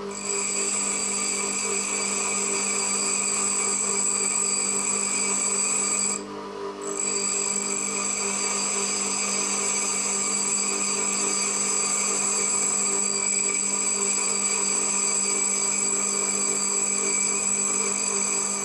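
Power tool running steadily, grinding metal to shape a wood drill bit, with a high whine over a low motor hum. The whine drops out for about half a second around six seconds in, as the contact is briefly lifted, then resumes.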